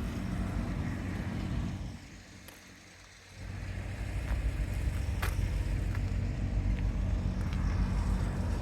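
Triumph Tiger 1200's three-cylinder engine idling steadily through an aftermarket Arrow silencer. The sound drops away for about a second and a half about two seconds in, then returns.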